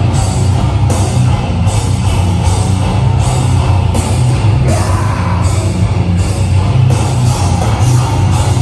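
A heavy rock band playing live and loud, with distorted guitars, heavy bass and drums, and crashes landing about every three-quarters of a second.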